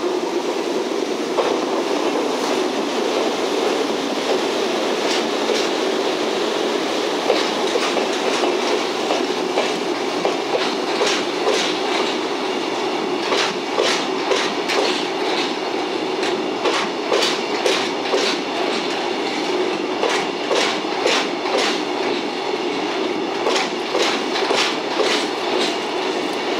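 Empty Chiki flat wagons of an EF65-hauled freight train rolling through, their wheels clicking over the rail joints in regular pairs over a steady rumble; the clicking comes thicker in the second half.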